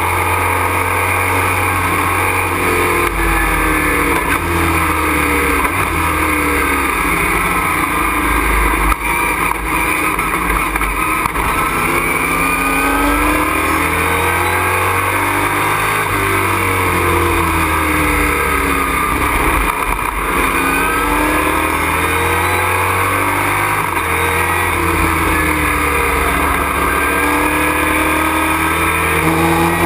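Race truck's engine heard from inside the cockpit, its pitch repeatedly dropping and climbing again as it slows for corners and accelerates out of them, with a steady rush of road and wind noise.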